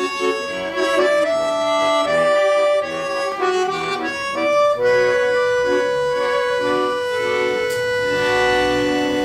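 Accordion playing a tune in short notes, then about five seconds in holding one long chord.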